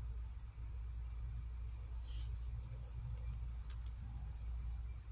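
Steady chorus of crickets trilling, over a low rumble, with a couple of faint clicks about two thirds of the way through.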